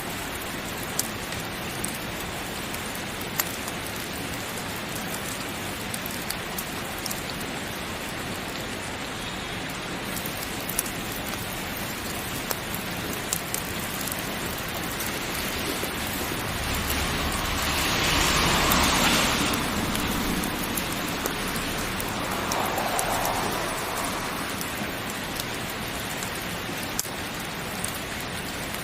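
Heavy rain falling in a steady hiss, with scattered sharp ticks. Over a few seconds past the middle the rain swells louder, like a heavier gust of rain, then eases back.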